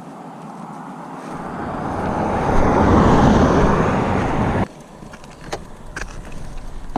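A car passing on the road, its noise building to a peak about three seconds in, then cutting off abruptly; a few faint clicks follow.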